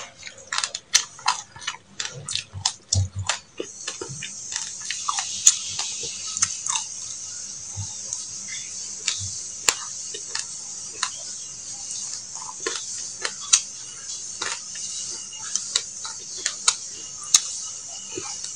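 Close-up crunchy chewing of a mouthful of sesame seeds: quick, sharp crackles, thickest in the first few seconds and then scattered, over a steady high hiss from about four seconds in.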